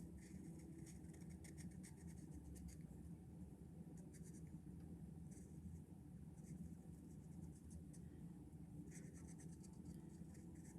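Paint pen tip scratching faintly across a painted stone as it traces an outline, in short runs of strokes with brief pauses between them.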